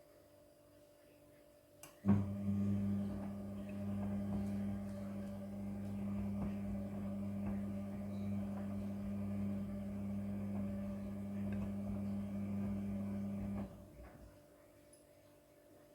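Midea front-loading washing machine running, a steady low hum that starts just after a click about two seconds in. Small ticks run through it, and it stops abruptly near the end.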